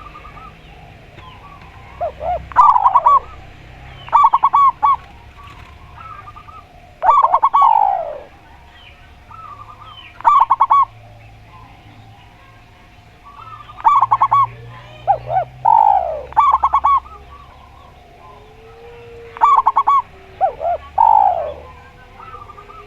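Spotted dove and zebra dove cooing. Short phrases come every few seconds; each is a run of fast-pulsed coo notes, often with a slurred note falling in pitch.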